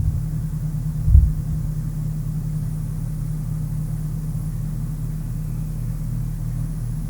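Steady low hum and rumble, with one short low thump about a second in.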